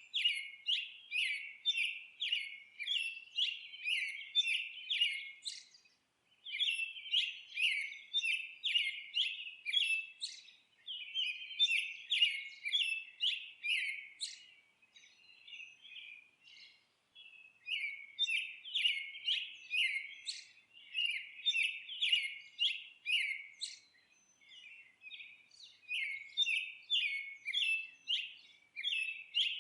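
Songbirds chirping in rapid runs of short, repeated chirps, about two a second, with brief pauses between the runs.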